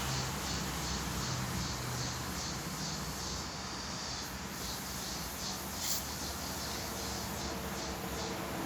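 A person chewing food with the mouth close to the microphone, a soft regular rhythm of about two to three chews a second that pauses briefly partway through, over a steady background hiss.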